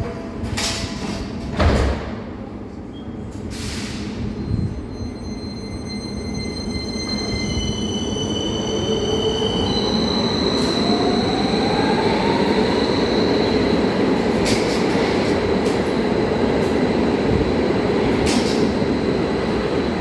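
Berlin U-Bahn type JK train pulling away and accelerating: its electric drive whines and rises in pitch as the wheel-and-rail rumble grows louder, then it runs on at speed. There are a few sharp clicks in the first seconds and now and then while running.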